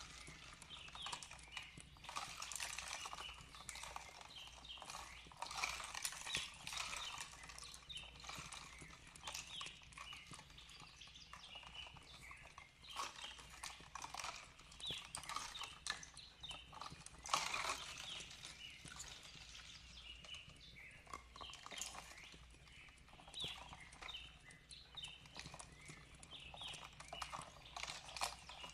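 Fireplace crackling with frequent irregular pops and snaps, over a steady wash of gently flowing water, with small birds chirping softly.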